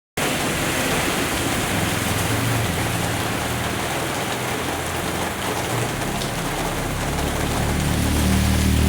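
Heavy rain falling steadily, a dense even hiss of rain on surfaces. A low hum underneath grows louder near the end.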